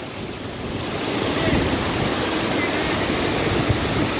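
Waterfall rushing: a steady wash of falling water that grows louder over the first second and then holds.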